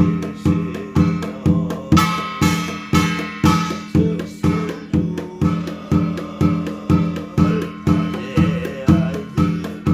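Korean shamanic ritual (gut) music: a drum beaten in a steady rhythm about twice a second, with a sustained high reed-pipe line above it and a brighter, busier stretch of high tones about two to four seconds in.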